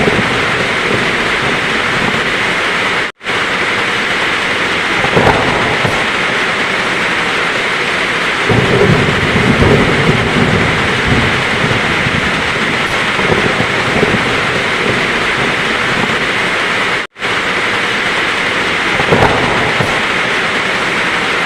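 Heavy rain falling steadily with thunder rumbling low underneath, swelling most from about a third of the way in to past the middle. The sound cuts out for an instant twice.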